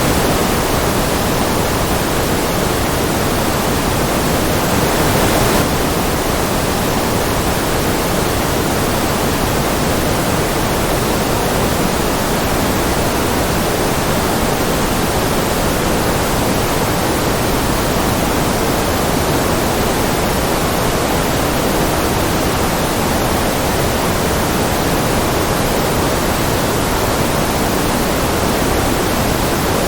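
Steady white noise, an even hiss across all pitches with no rhythm or events, dipping slightly in level about five seconds in.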